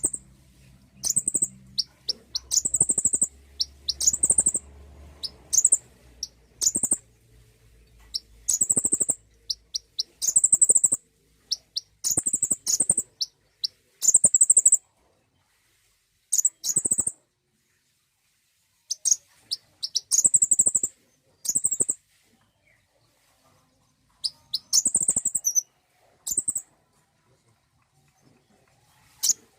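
Konin bird calling: short bursts of very high, thin chirps, a phrase every second or two, with pauses of a few seconds between groups in the second half.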